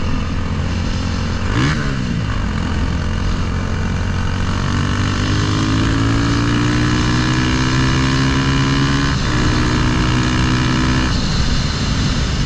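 Engine of a Honda Grom with a swapped-in CBR300R single-cylinder, running under way. Its pitch climbs steadily as it accelerates from about four seconds in, then drops sharply at a gear change about nine seconds in.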